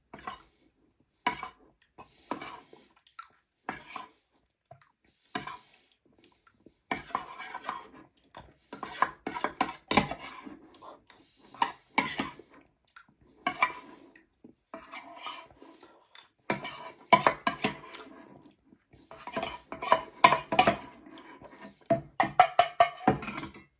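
Spoon clinking and scraping against a dish, as curd and honey are scooped out to eat. A few separate clinks come first, then about seven seconds in they turn into dense bouts of scraping and clinking.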